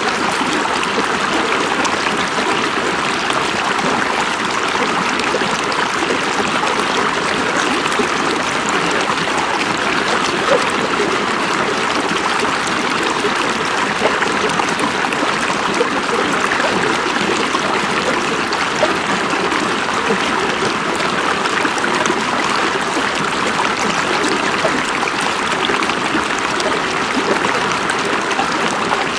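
River water flowing and babbling over rocks: a steady, even rush.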